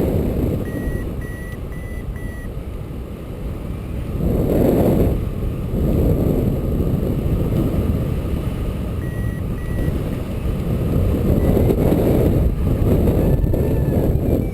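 Hang-gliding variometer beeping in short, evenly spaced high tones: four beeps about a second in and two more near the middle. The beeps are over a heavy rush of wind on the microphone during the truck tow. The beeping is the variometer signalling a climb.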